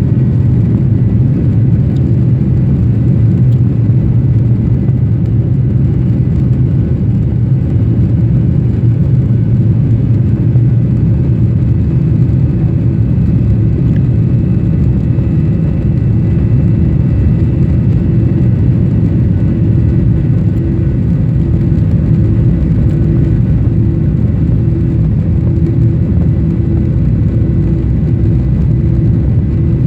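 Airliner cabin noise during takeoff: the jet engines at takeoff power with a loud, steady rumble, heard from inside the passenger cabin.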